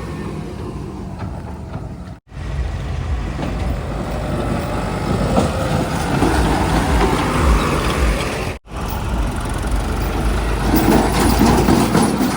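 Heavy diesel machinery engines running, with the sound cutting off abruptly twice and coming back louder.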